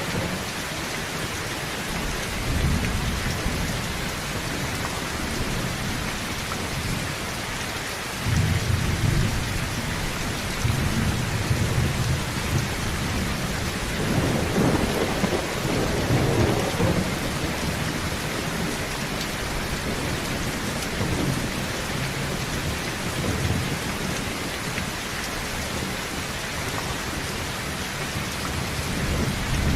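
Heavy rain falling steadily on a tin roof, with low thunder rumbling several times. The strongest roll comes about halfway through.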